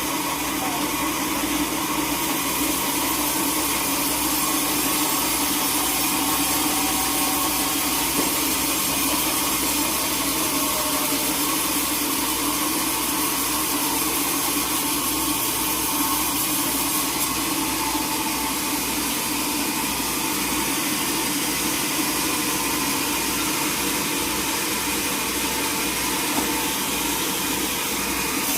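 Sawmill machinery running with a steady, even drone and hiss.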